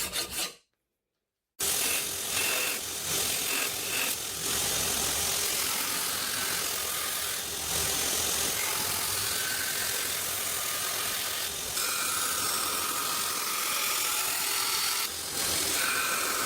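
A few rasping hand-file strokes on steel break off abruptly, and after a second of silence a gas forge's burner runs with a steady rushing noise, with faint whistling tones coming and going over it.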